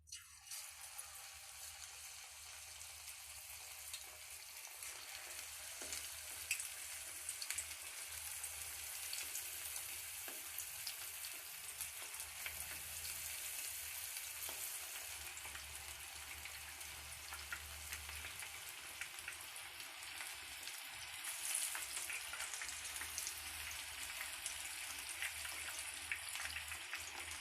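Marinated boneless chicken pieces deep frying in hot oil: a steady sizzle with fine crackling, starting as the pieces go in.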